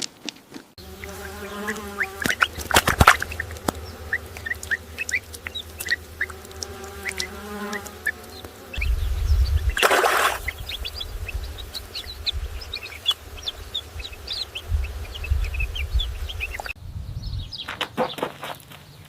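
Bees buzzing, the buzz swelling as they pass close twice, with small birds chirping throughout. A brief rush of noise comes about ten seconds in, and near the end the recording changes to a different clip.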